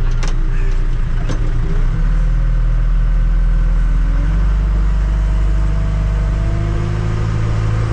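Tractor loader backhoe's diesel engine running steadily under load, with its note shifting about two seconds in. Two short clicks sound in the first second and a half.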